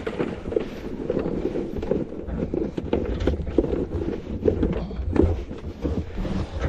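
Vehicle driving over rough ground: a steady low rumble with many irregular knocks and rattles.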